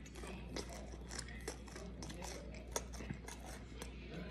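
Close-up chewing of a mouthful of sauced chicken: irregular wet mouth clicks and smacks, over a low steady hum.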